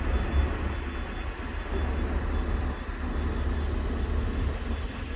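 Heavy vehicle engine, likely a fire truck's, running steadily with a low rumble.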